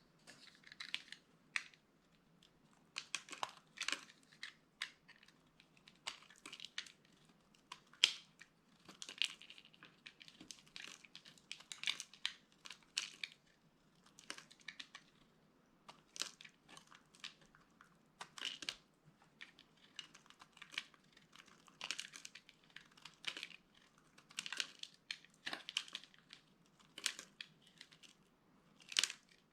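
Dry soap being crushed: crisp crunching and crackling in short clusters, roughly one a second, with brief pauses between.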